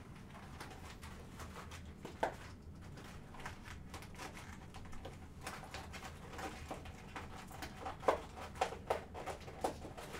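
Light clicks and taps from small objects being handled, scattered at first and coming quicker and sharper in the last few seconds, over a low steady hum.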